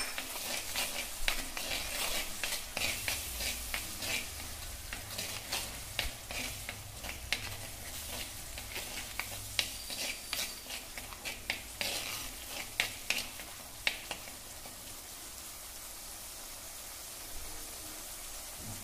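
Garlic and ginger paste sizzling in hot oil in an earthenware kadhai as it is sautéed to cook off its raw smell. A metal spoon stirs it, scraping and clicking against the clay. The stirring stops about three-quarters of the way through, leaving only the steady sizzle.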